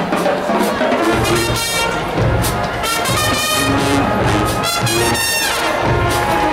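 High school marching band playing, with the brass section of trumpets and trombones carrying the music over low parts. The full band comes in about a second in, after a thinner opening.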